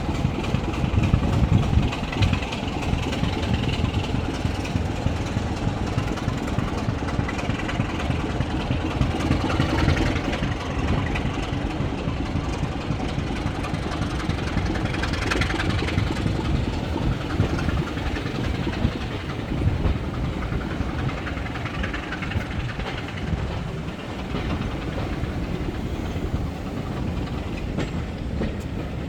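A diesel train moving along the line, its engine running and its wheels rolling over the rails, steady throughout.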